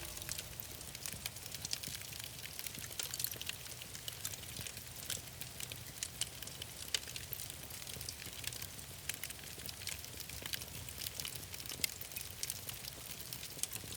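Wood fire crackling and popping, with sharp irregular snaps over a soft hiss and low rumble.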